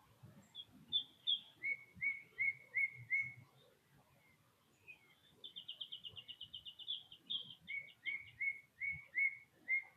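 A songbird singing a whistled song: phrases of clear, repeated slurred notes, with a fast trill about halfway through.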